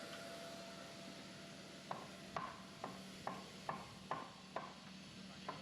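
Hammer driving nails into wooden wall framing: an even run of sharp strikes, about two a second, starting about two seconds in. A faint steady hiss fades out in the first second or so.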